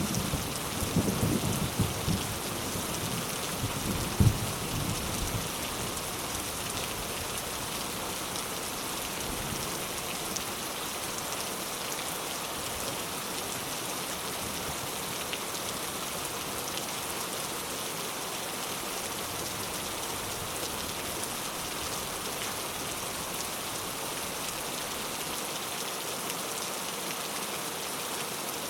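Heavy rain falling steadily on surfaces, an even hiss with scattered drop patter. In the first few seconds a low rumble of thunder, with a sharp loud peak about four seconds in, dies away.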